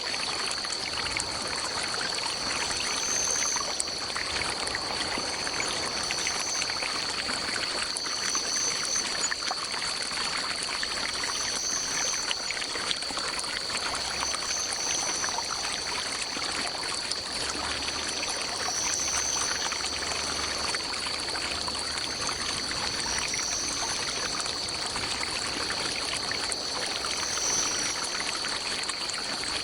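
A forest stream trickling and pouring over rocks, a steady rushing of water. Over it runs a steady high-pitched drone, and a higher note comes and goes every couple of seconds.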